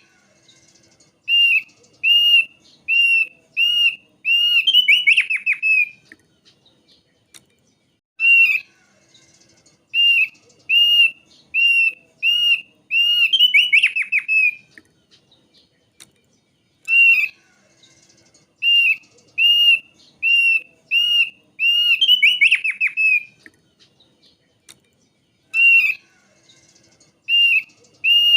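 Thick-billed white-eye singing: a series of clear, arched whistled notes about one every two-thirds of a second, ending in a fast, rattling trill. The same phrase repeats three times.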